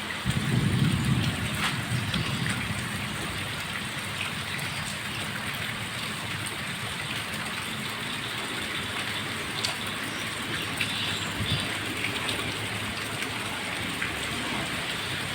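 Heavy rain falling steadily, an even hiss. A louder low rumble sits under it for about the first two seconds, then fades.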